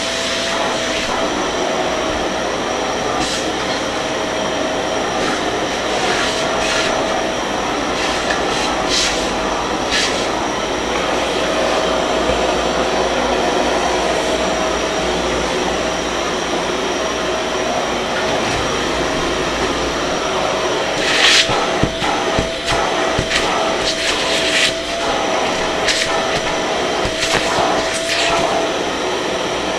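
Kärcher MV6 P Premium wet-and-dry vacuum cleaner running steadily with a whine. In the second half there is a run of sharp clicks and knocks.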